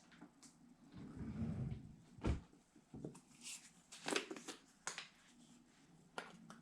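Light kitchen handling noises as seasoning containers and a measuring teaspoon are handled: scattered clicks and knocks, with a low thump a little over two seconds in and a cluster of clicks about four to five seconds in.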